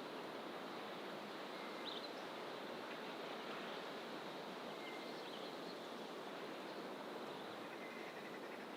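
Outdoor fynbos bush ambience: a steady, even hiss. A few faint, short bird calls come about two, five and eight seconds in.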